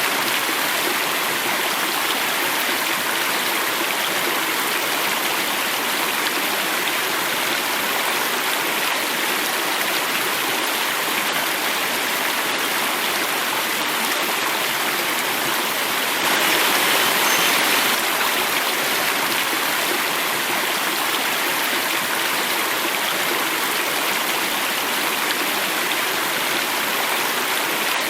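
Water flowing and falling in a cascade, a steady rush. It swells slightly louder for a second or two a little past the middle.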